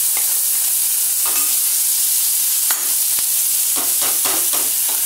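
Green chilli and garlic sizzling in hot oil with mustard seeds in an aluminium kadhai, a steady hiss, as the tempering cooks. A steel spoon scrapes the bowl and clinks against it several times.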